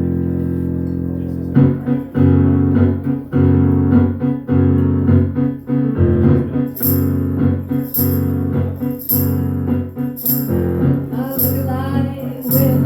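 Live band playing a song's instrumental intro: a held keyboard chord, then rhythmic repeated chords, with a tambourine coming in on a steady beat about halfway through.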